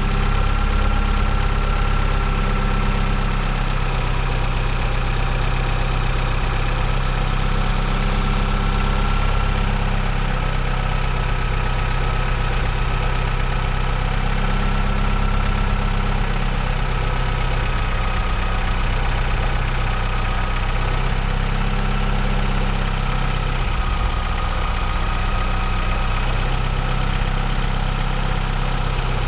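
The 2.2 16V four-cylinder engine of a 2001 Vectra CD idling steadily, with a faint high thin whine over the low running note. This is the engine whose noise the owner put down to worn hydraulic lifters and a broken exhaust-manifold stud.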